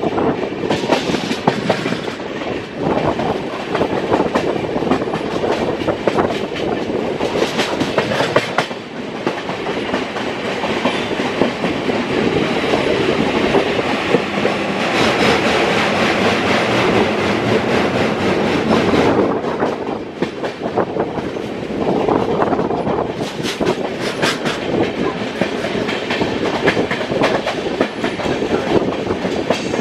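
Passenger train running at speed, heard from an open coach doorway: steady wheel and rail rumble with wind. Bursts of clickety-clack come from the wheels going over rail joints and points several times. The rumble grows louder for a few seconds in the middle while the train crosses a bridge.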